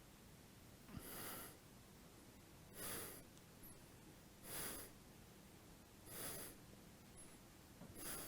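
Faint breathing: five short, hissy breaths, one every second and a half or so, from someone holding a camel-pose backbend.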